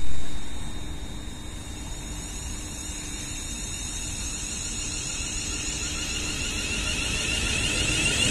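Electric passenger trains approaching along the line, their rumble and rail noise building steadily toward the end. A loud bump right at the start dies away within about a second.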